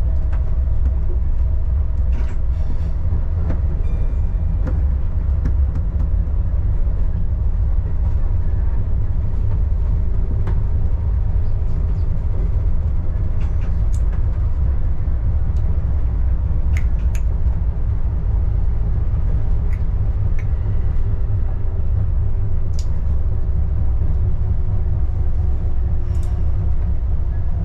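Adelaide Metro diesel railcar on the move, heard as a steady low rumble with occasional faint clicks and rattles.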